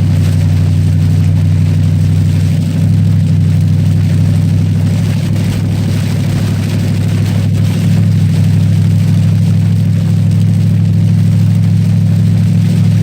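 Cadillac STS-V's supercharged V8 running steadily at speed, with a steady hiss of wet tyres and spray above it.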